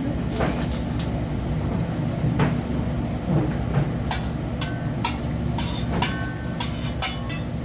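A steady low rumble from the hibachi grill table. About halfway through, a quick run of sharp metallic clinks with a short ringing after each, typical of a hibachi chef's spatula and utensils striking the steel griddle.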